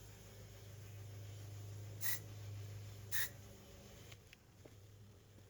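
Two short spritzes of CA glue activator spray, about a second apart, over a low steady hum that stops about four seconds in.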